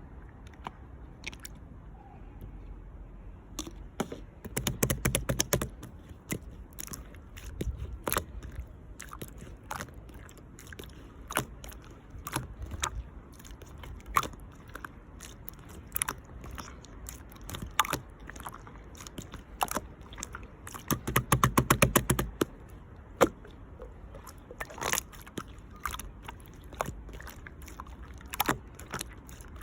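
Purple clear slime being squeezed, pressed and stretched by hand, making sticky wet clicks and small air-bubble pops. There are two quick runs of dense clicking, one about five seconds in and another a little past twenty seconds.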